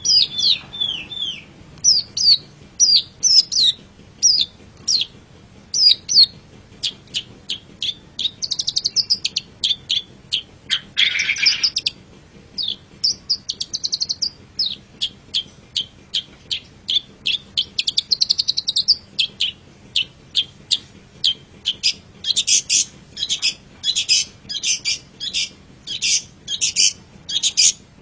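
Long-tailed shrike (cendet) singing a fast, varied run of short chirps and down-slurred whistles. About eleven seconds in comes a brief harsh rasp, and near the end the notes come quicker and more clipped.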